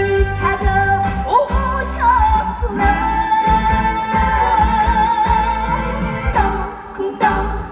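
Trot song sung live over a band backing track with a steady beat. In the middle the singer holds one long note with vibrato.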